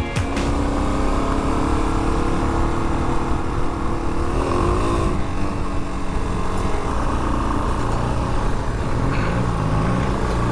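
Suzuki DR-Z400 dual-sport motorcycle's single-cylinder engine running while riding, its pitch dipping and rising with the throttle about halfway through and again near the end.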